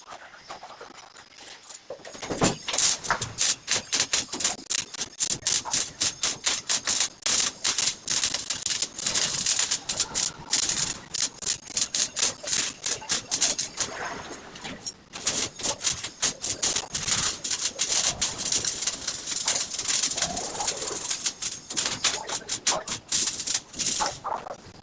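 Electric arc welding: a dense, irregular crackle of rapid sharp clicks, starting about two seconds in, with a brief break about midway.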